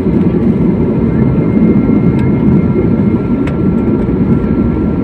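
Airliner cabin noise: a steady rumble of the jet engines and airframe, with a thin high whine held over it and a few faint clicks.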